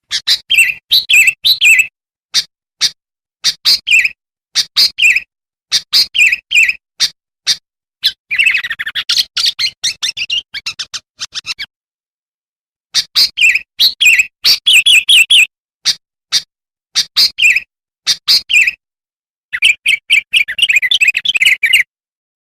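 Sooty-headed bulbul (kutilang) calling loudly and busily: quick repeated chirps broken by longer runs of rapid twittering, with a short pause about halfway. A lively, agitated call of the kind played as a lure to bring wild bulbuls in.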